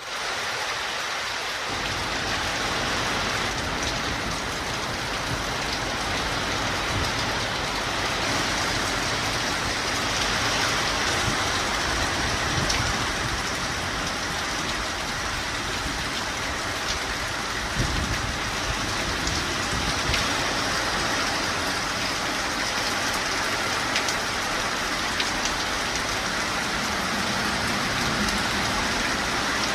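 Steady downpour of rain with wind, a continuous even hiss with a low rumble underneath.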